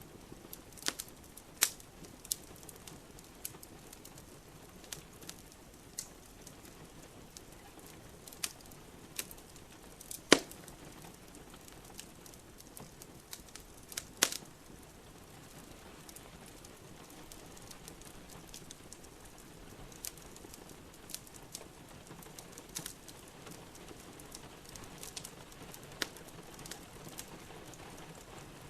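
Wood fire in a fireplace crackling, with scattered sharp pops (the loudest about ten and fourteen seconds in), over a steady hiss of rain.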